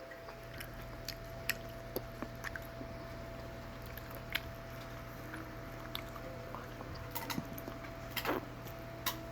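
A German shepherd, pit bull and rottweiler mix dog chewing chicken bones: irregular crunching and cracking, with a cluster of louder cracks near the end.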